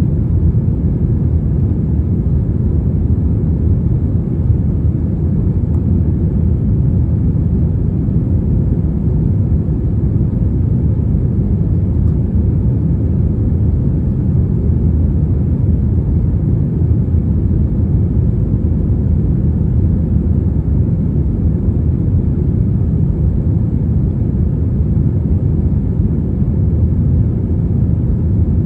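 Steady low rumble of a passenger airliner, even and unchanging throughout, with no distinct events.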